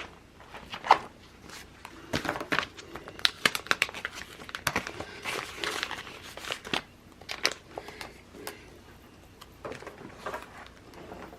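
Sticker sheets and planner paper being handled: crinkling and rustling with many small clicks and taps.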